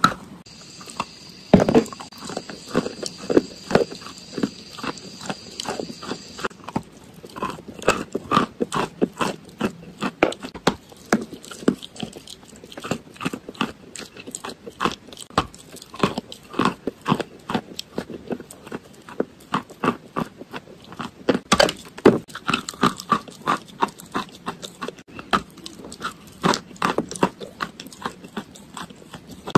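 Close-miked biting and chewing of a crumbly, chalky white block: a dense, irregular run of sharp crunches and crackles from the mouth. A faint steady high tone sounds for about the first six seconds.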